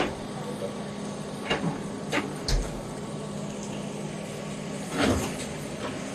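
Demolition machine's engine running steadily under scattered knocks and bangs from the house being knocked down, one with a deep thud about two and a half seconds in and a longer crash about five seconds in.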